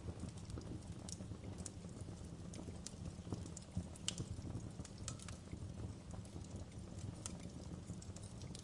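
Wood fire burning: irregular sharp crackles and pops over a low, steady rumble.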